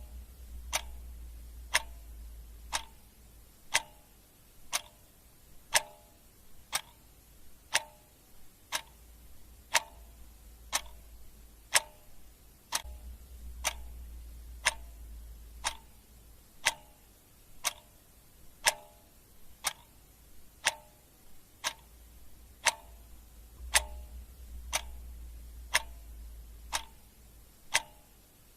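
Clock ticking, one sharp tick a second, steady and even.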